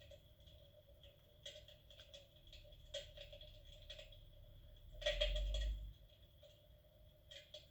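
Electric fireplace's built-in crackling-fire sound effect playing faintly: scattered soft clicks over a steady faint hum. About five seconds in, a low rumbling bump lasts about a second and is the loudest thing heard.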